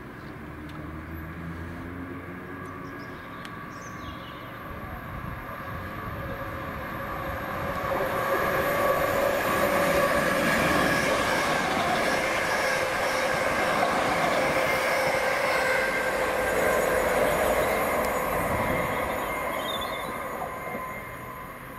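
Class 321 electric multiple unit running through on the main line: it grows louder over the first eight seconds, runs loud with a steady high whine over the rush of wheels on rail, then fades near the end.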